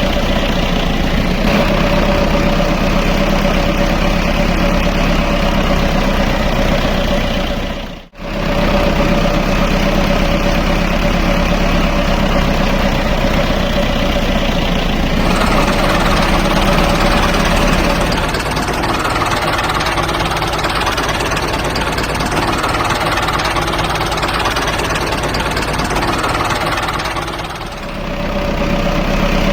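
A mini tractor's motor running steadily with a constant hum. The sound cuts out abruptly for a moment about a third of the way in, changes character about halfway through, and dips briefly near the end.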